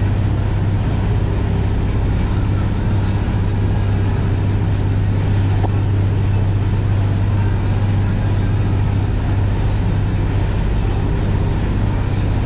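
Motorboat underway: the engine drones steadily with a strong low hum, under a constant rushing noise.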